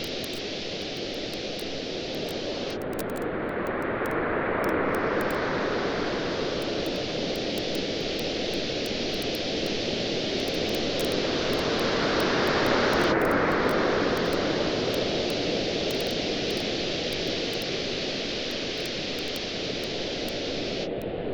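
Ocean waves washing ashore in slow swells, two larger surges rising and falling, over a steady hiss of surf. Light, scattered crackles of a wood campfire run through it.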